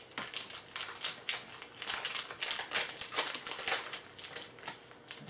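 Trading card pack wrappers crinkling and rustling in the hands as packs are opened, a quick run of irregular crackles.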